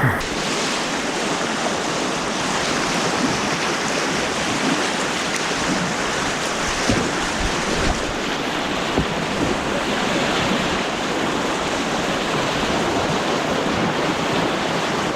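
Steady rushing of white water on an artificial white-water course.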